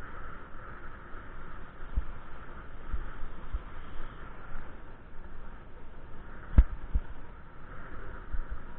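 Steady rushing noise, as of wind and road on a bike-mounted microphone, with low thumps every second or so and a sharp knock about six and a half seconds in.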